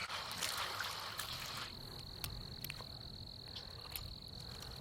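A steady, high-pitched pulsing trill from a calling animal, with a brief break near the end and a few faint clicks.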